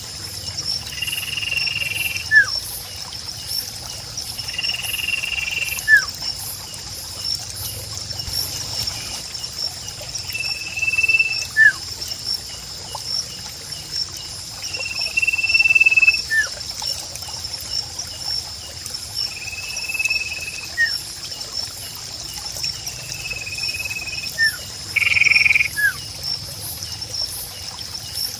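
Nature ambience recording of a steady high insect trill. Short whistled bird notes repeat every few seconds, with a quick falling whistle after each, over a faint trickle of water.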